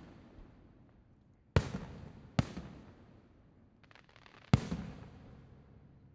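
Fireworks shells bursting: three sharp booms, two close together then a third, loudest one a couple of seconds later. Each is followed by a rolling rumble that fades, and a faint crackle comes just before the last.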